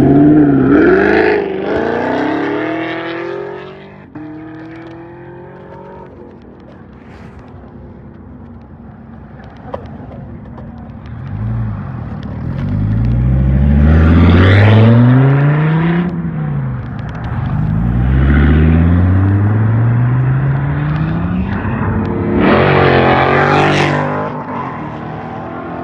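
Sports cars accelerating hard away one after another. First a Chevrolet Camaro revs up, then after a quieter gap a Dodge Viper's V10 climbs through several gears in repeated rising sweeps, and near the end a Ferrari 488 Pista's twin-turbo V8 revs loudly.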